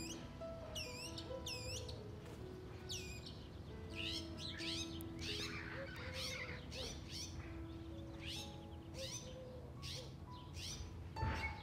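Birds chirping in many short, quick sweeping calls, thickest from about four to seven seconds in, over soft background music of long held notes.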